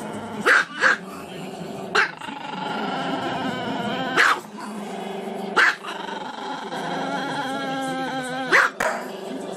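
Small long-haired Chihuahua howling in long, wavering notes, broken by about seven short, sharp yelping barks.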